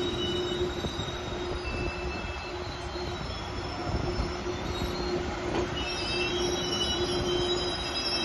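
Frecciarossa high-speed train rolling slowly past the platform, with a steady low rumble and hum and thin high-pitched wheel squeals that come and go.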